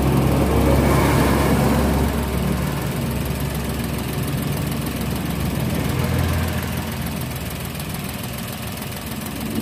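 Toyota Wigo's 1.0-litre three-cylinder engine idling roughly, slightly louder for the first couple of seconds. The rough idle and shake come from misfires on cylinders 1 and 3, which the scan tool traced to the ignition coils.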